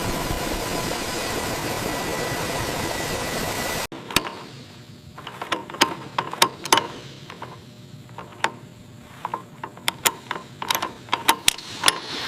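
A loud steady mechanical noise that cuts off abruptly about four seconds in. It is followed by a quieter stretch of irregular sharp clicks and knocks, like tools and mechanical parts being worked.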